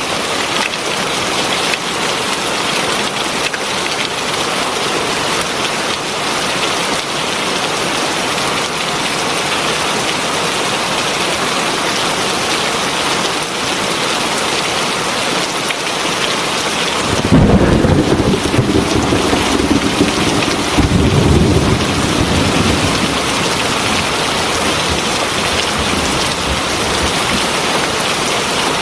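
Heavy rain falling steadily in an even hiss. About two-thirds of the way through, a deep roll of thunder breaks in suddenly, swells a second time and fades after about five seconds.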